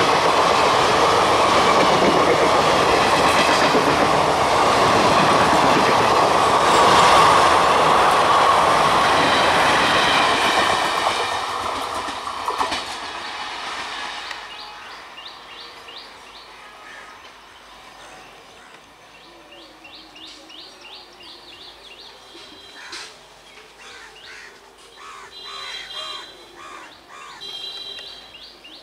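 Indian Railways express coaches passing close on a curve, wheels clattering on the rails with a high, steady squeal over the noise. The sound fades from about eleven seconds in as the train draws away, leaving faint chirps.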